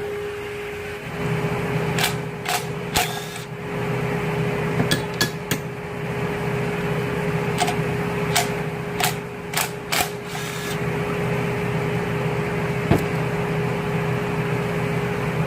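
Sharp metallic clinks of hand tools and loose bolts against engine parts, about a dozen at irregular moments, mostly between two and ten seconds in, over a steady hum.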